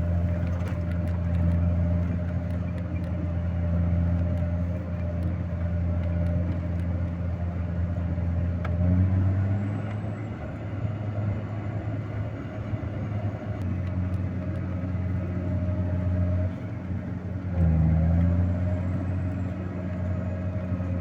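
Vehicle engine running steadily under way, with a steady whine above it. The engine note rises briefly about nine seconds in and again near eighteen seconds.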